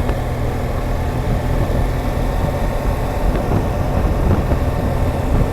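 BMW R1200GSA boxer-twin engine running steadily while the motorcycle is ridden along, a constant low rumble.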